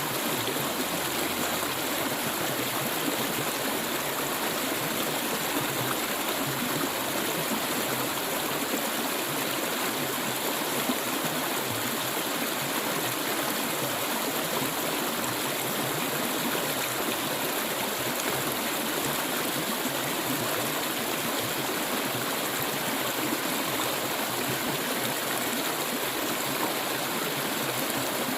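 Stream of clear water flowing steadily over stones, a continuous rushing with gurgles and trickles.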